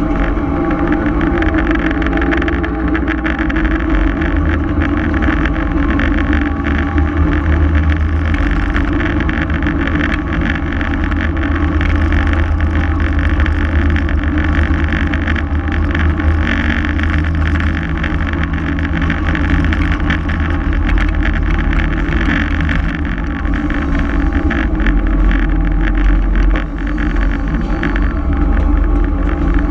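Diesel switcher locomotive running steadily with the train under way: a constant engine drone over a rumble, loud throughout.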